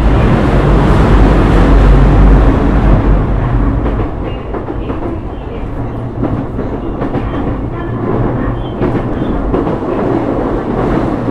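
Sotetsu 12000 series electric train running, heard from inside the car. A dense rumble is loudest for the first few seconds, then eases to a steadier level, with short clicks of the wheels over rail joints.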